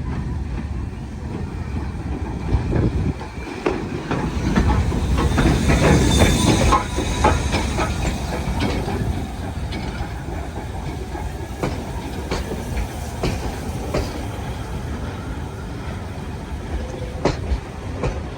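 Steam-hauled train running along the track: a steady rumble with irregular clicks and clatter from the wheels over rail joints. It swells louder for a few seconds about a quarter of the way in.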